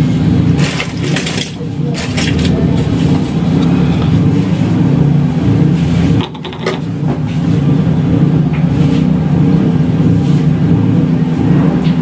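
A steady, loud low hum, with a few light clicks and rustles over it and a brief drop about six seconds in.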